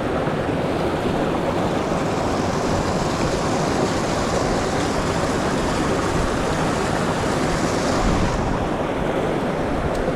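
Mountain stream water rushing over rocks: a steady, even rush of flowing water.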